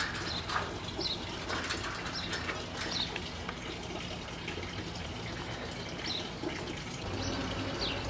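Scattered short, high chirps sliding downward, half a dozen or so, over a steady rushing background hiss, with a few faint clicks.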